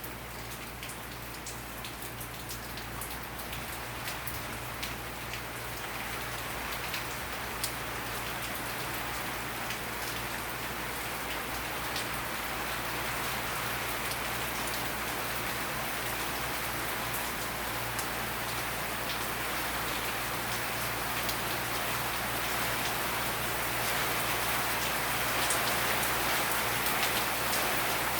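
Hurricane rain falling steadily, gradually getting louder, with sharp single drops ticking now and then over the hiss.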